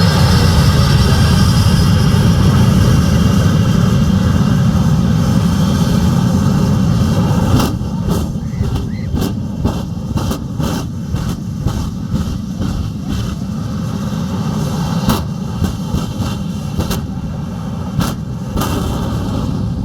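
Aircraft engine rumbling loudly as a plane passes, dropping away about eight seconds in. After that, a string of sharp, irregular cracks or knocks over a quieter rumble.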